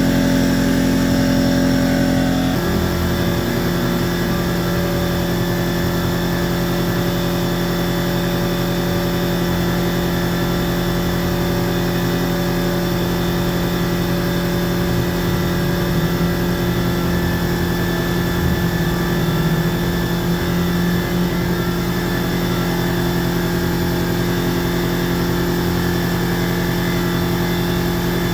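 KLUTCH 20-gallon upright oil-free air compressor running steadily, a constant motor-and-pump drone that doesn't sound like it's trying to walk away. Its note shifts slightly about two and a half seconds in, then holds.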